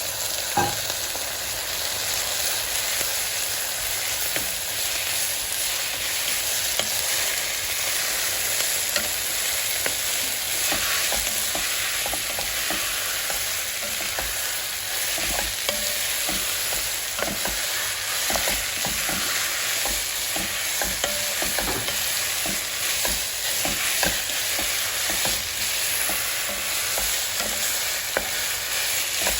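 Food sizzling steadily in hot oil in a pan while it is stirred, with frequent light clicks of the utensil against the pan.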